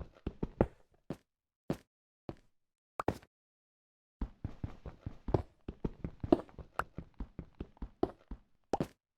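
Irregular knocking and tapping, sharp short hits at uneven spacing: a few scattered strikes, a pause of about a second, then a dense run of them from about four seconds in.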